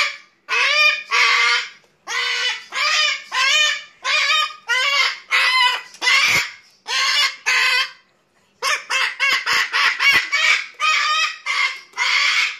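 A parrot making a long string of loud, short, harsh calls about two a second, like imitated dog barks. There is a brief pause about two-thirds of the way through, and the calls come quicker after it.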